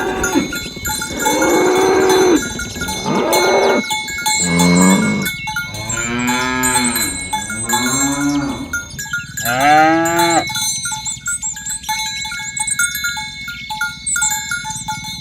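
Cattle mooing about six times in turn, some calls short and one long drawn-out moo in the middle, with small bells clinking in a steady repeating rhythm underneath that carries on alone after the last moo.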